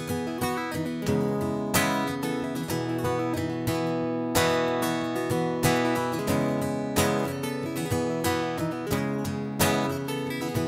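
Solo acoustic guitar playing strummed chords in a steady rhythm, with no singing.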